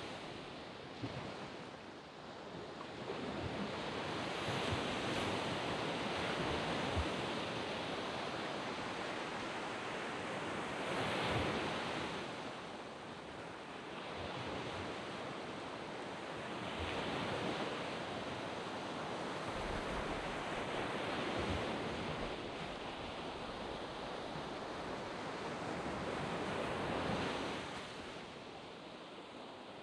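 Sea waves breaking and washing onto a sand beach, swelling and fading in repeated surges a few seconds apart.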